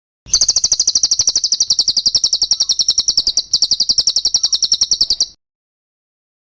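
Cililin song: a loud, rapid, even trill of high notes, about a dozen a second, lasting about five seconds with a brief break partway through, then stopping abruptly.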